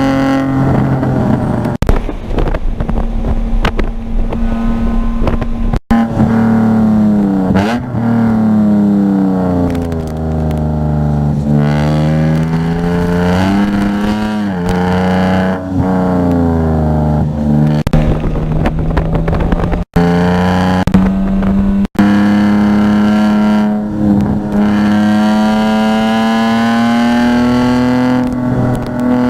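Car engine under load during a lap, its note rising with acceleration and falling under braking and downshifts, several times over. It cuts out sharply for an instant three times.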